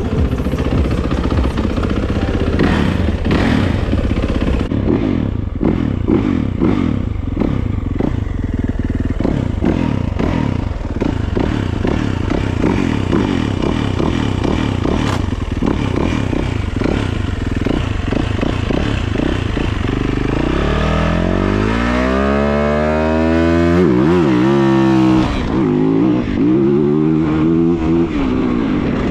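Four-stroke single-cylinder dirt bike engine running under constantly changing throttle while riding, with frequent knocks and rattles. In the last third the revs climb and fall in long sweeps.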